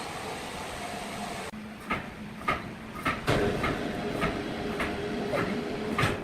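Sawmill machinery running with a regular clacking: sharp knocks about twice a second over a steady hum, starting after a sudden change in the sound about a second and a half in.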